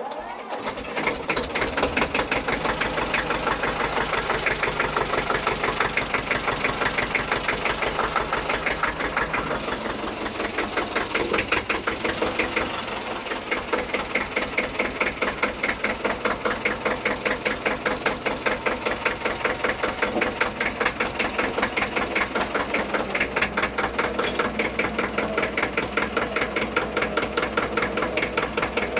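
Deutz D30 tractor's air-cooled two-cylinder diesel starting after long glow-plug preheating. It catches right away and then idles with a steady, rapid chugging.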